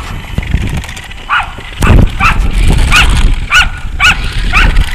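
A dog barking repeatedly, about seven short barks roughly half a second apart, starting a little over a second in.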